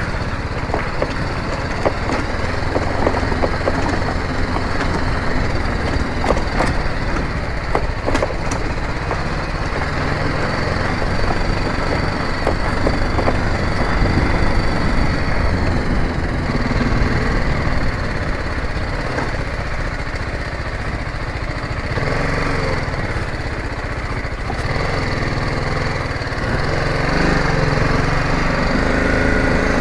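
Motorcycle engine running as the bike is ridden slowly over a rough, muddy road, with a few sharp knocks from bumps early on, and engine noise louder in the last few seconds.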